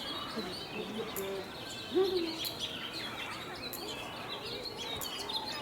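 A flock of small birds chirping steadily, with many quick overlapping high chirps. A louder, lower call stands out about two seconds in.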